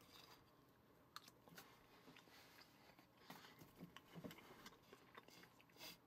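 Near silence, with faint chewing and a few small scattered clicks as a person eats a bite of crumbly oatmeal fruit bar.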